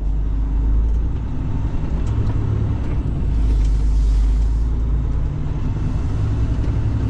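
Caterpillar 3406E diesel engine of a Freightliner FLD120 truck running, a steady low rumble heard from inside the cab.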